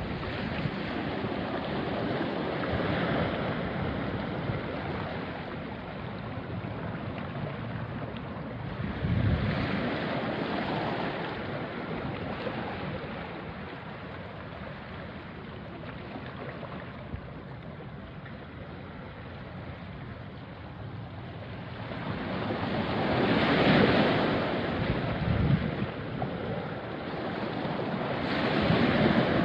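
Small sea waves washing onto a rocky shore, the wash swelling and ebbing, with louder surges about a third of the way in, past two thirds, and near the end.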